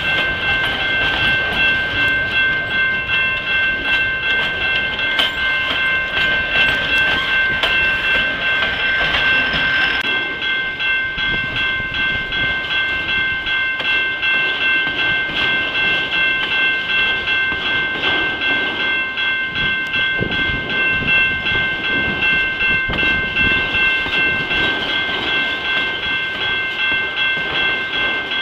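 Freight train cars rolling past on the rails with a rumble and clickety-clack. Over it runs a steady, high-pitched ringing of several tones that holds throughout.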